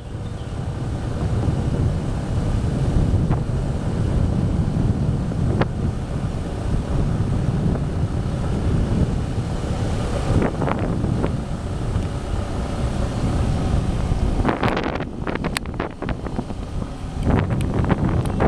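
Wind buffeting the microphone on a moving motorcycle, with the engine running steadily underneath. There are a few sharp knocks or crackles in the last few seconds.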